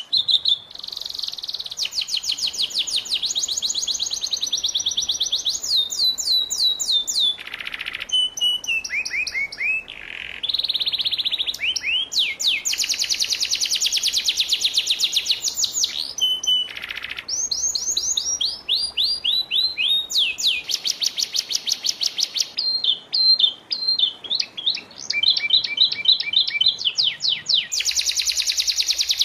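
Domestic canary singing a long unbroken song of rapid high trills and rolls, switching to a new phrase every second or two, with a few sliding notes between.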